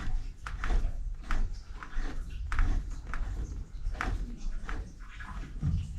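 Irregular clicks and knocks, two or three a second, over a low rumble: hand work with tools and metal parts.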